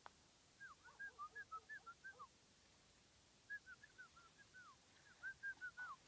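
A bird calling in quick runs of short whistled chirps, each note dipping or arching in pitch, in three bursts over near silence.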